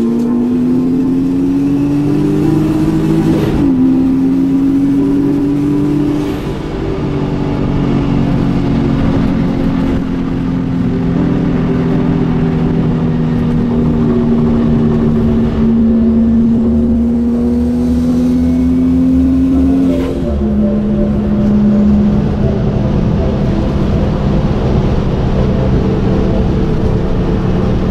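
Turbocharged Nissan 350Z's engine heard from inside the cabin while driving: the engine note climbs under acceleration and drops with an upshift a few seconds in, climbs slowly again and drops with another upshift about two-thirds of the way through, then holds steady.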